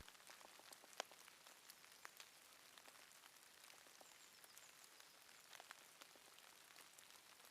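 Faint light drizzle with scattered raindrops ticking, one drop a little louder about a second in.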